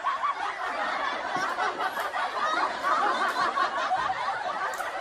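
Continuous snickering and chuckling laughter.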